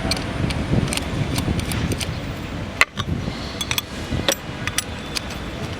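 Scattered sharp metallic clicks and clinks from streetboard truck parts and tools being handled, the loudest about three seconds in, over steady background noise.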